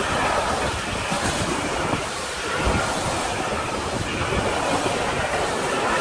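Container freight train's loaded flat wagons rolling past: a steady rumbling rush of wheels on rails, with many small low knocks from the wagons.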